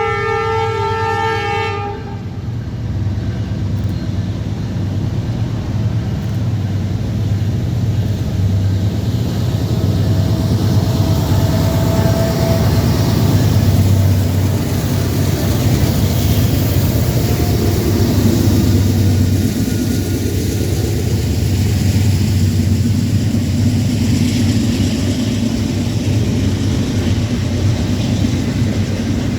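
A train horn sounds a chord for about two seconds at the start. Then a train rumbles past steadily, with a heavy low engine drone and rail noise.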